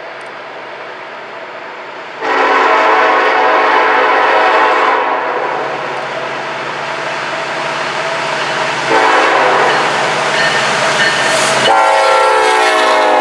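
Locomotive horn sounding long blasts over a passing train: one held blast, a pause, then two more, the last louder with its pitch dropping as the train goes by.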